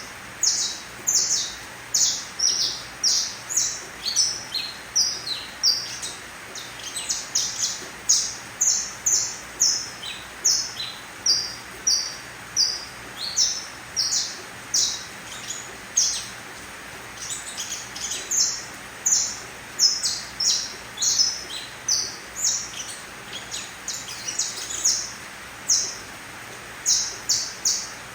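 Young domestic canary, a three-month-old colour mutant, chirping: a steady run of short high notes at about two a second, over a faint hiss.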